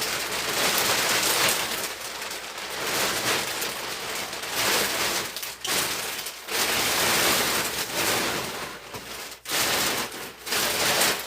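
Thin plastic window sheeting crinkling and rustling as it is handled and pressed over a window, in continuous swells with a few brief breaks.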